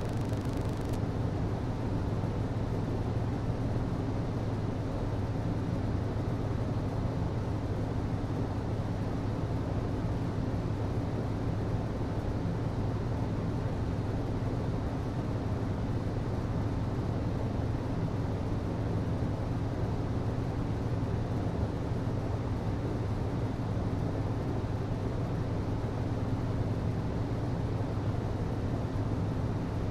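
HVAC system running: a steady low hum over an even rushing noise.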